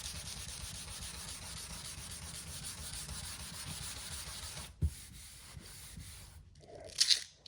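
Sandpaper on a hand sanding block rubbing down cured UV body filler on a car panel, in quick steady back-and-forth strokes. The strokes stop about five seconds in with a knock, and a short scuffing sound follows near the end.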